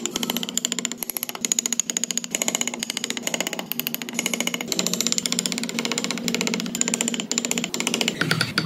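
Small power carving tool working wood, running steadily with a rapid, even clatter over a constant motor hum.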